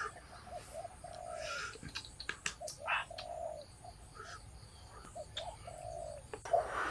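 Bird calls: short, low pitched notes repeated at uneven intervals, with a few sharp clicks around two to three seconds in.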